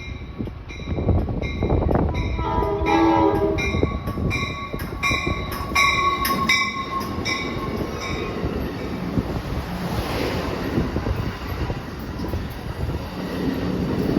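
Nathan K5LA five-chime air horn on Amtrak 90200 sounding one short blast about two seconds in, over a bell ringing about twice a second. The train then rumbles past, with a steady whine from the wheels for a few seconds.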